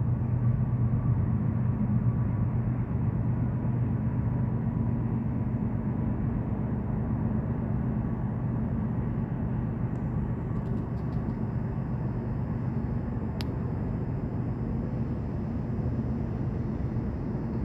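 CN intermodal freight train with diesel locomotives, a steady low rumble that holds level throughout. Faint thin high tones come in about ten seconds in, and there is one sharp click a few seconds later.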